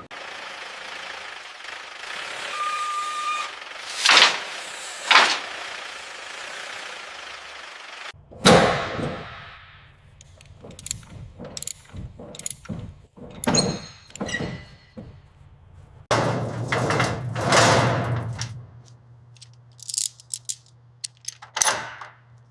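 A run of mechanical clunks, clicks and whooshes, with a short beep about three seconds in and a low steady hum starting in the last third.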